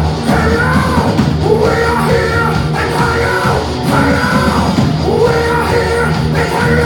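Heavy metal band playing live: distorted guitars, bass and drums under loud, yelled vocals.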